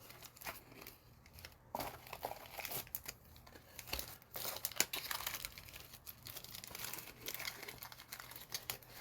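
A card pack's wrapper being handled and torn open, with quiet, irregular crinkling and crackling.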